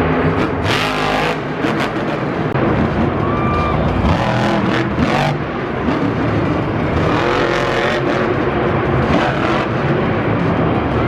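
Monster truck's supercharged V8 engine running hard and revving, its pitch rising and falling.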